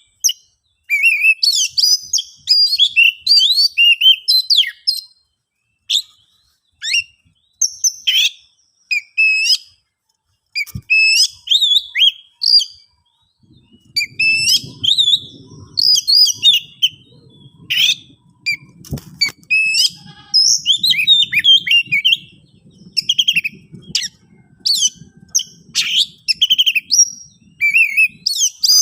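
Oriental magpie-robin (kacer) singing loud, rapid phrases of whistles and chirps in bursts with short pauses. It is the agitated, territorial song that keepers use to provoke rival males into answering.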